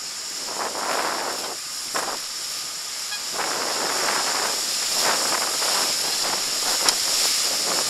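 River water rushing and splashing around a raft being paddled through a rapid, in repeated noisy swells, with wind noise on the microphone.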